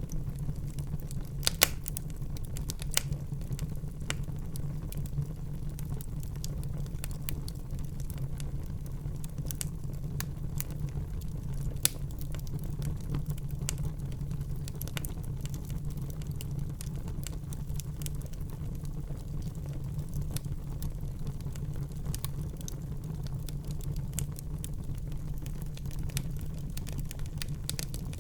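Wood fire burning in a fireplace: a steady low rumble of flame with frequent small crackles and a few louder pops, the loudest about a second and a half in and again near twelve seconds in.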